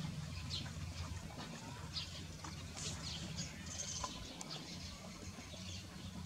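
Small birds chirping in short, high, irregular calls, several a second, over a steady low hum.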